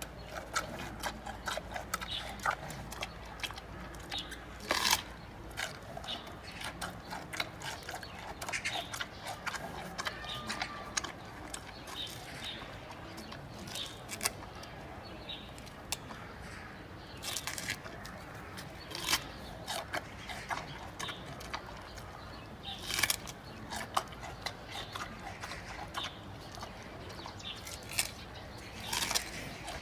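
Giant panda chewing bamboo: irregular crunching and cracking, several a second, with a few louder snaps of the stalks.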